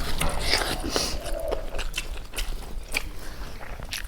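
Close-miked eating: biting and chewing chicken, a run of small wet clicks and crunches.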